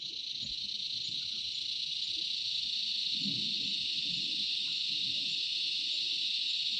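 Insect chorus: a steady, high-pitched drone that swells over the first couple of seconds, then holds level.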